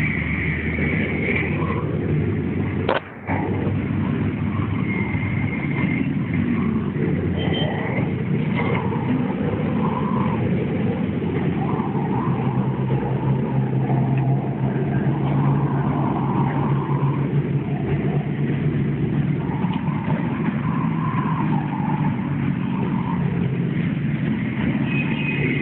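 Steady rumble of road traffic, with a brief drop-out and click about three seconds in.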